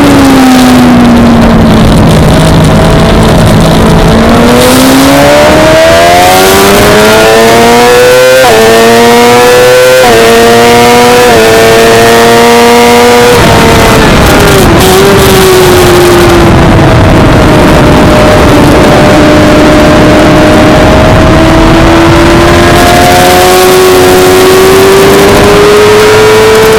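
Suzuki GSX-R600 inline-four race bike engine revving hard and climbing through the gears, with three quick upshifts in a row. About halfway through the throttle shuts and the revs drop. The revs then rise slowly again under part throttle, with steady wind and road noise throughout.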